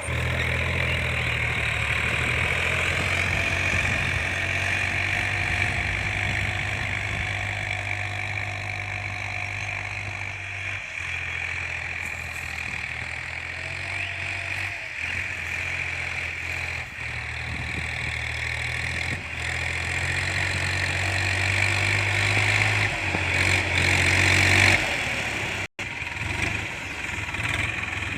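Massey Ferguson TAFE 7250 DI Power Up tractor's three-cylinder 2700 cc diesel engine idling steadily.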